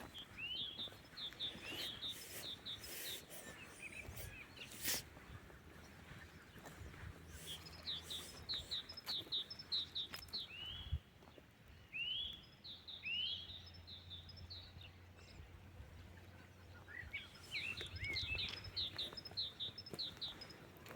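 Songbird singing in three bouts, each a few upward-curving notes followed by a quick run of short high notes, with pauses of several seconds between bouts.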